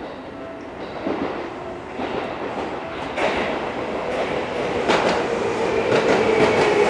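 Seibu 2000-series electric train running on the rails, its wheels knocking over rail joints a handful of times. It grows steadily louder, and a steady tone rises over the last two seconds.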